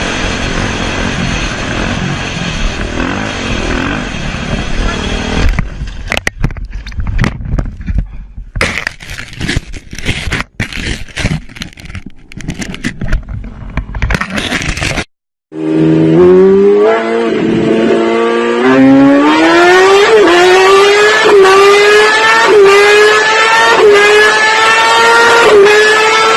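Motor vehicle engines heard across several cut-together clips. A steady engine sound gives way to choppy, broken noise. After an abrupt cut, an engine runs hard, its pitch climbing in steps.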